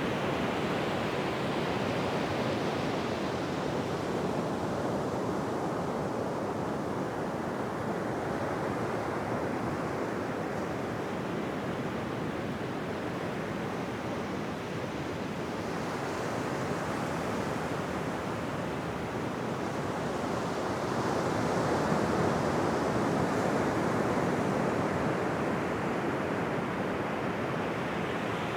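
Ocean surf: a continuous wash of waves breaking on a beach, swelling and fading slowly, with a bigger wave breaking and washing up about twenty seconds in.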